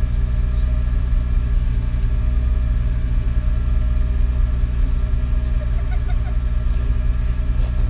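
Peugeot 106 rally car's engine idling steadily while stationary, heard inside the cabin.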